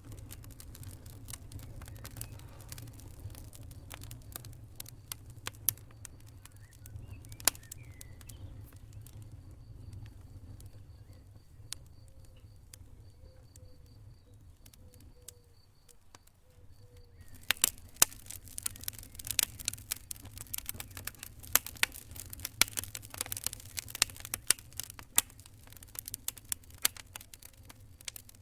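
Campfire crackling: scattered sharp pops over a low, steady rumble, thinning out in the middle, then turning into a dense run of loud snaps and crackles for the last third.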